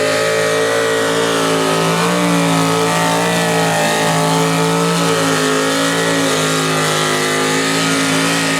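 A 502 big-block V8 in a pulling tractor running flat out under load as it drags the sled down the track. The note holds nearly steady at high revs, with slight wavers in pitch.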